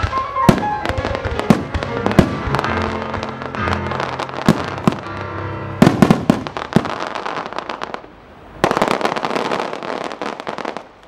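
Fireworks bursting with sharp bangs over a music soundtrack for the first seven seconds or so. After a brief lull, a dense run of crackling follows as glittering star bursts fill the sky.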